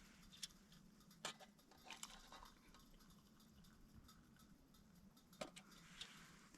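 Near silence with a few faint, scattered clicks and a low, steady hum underneath.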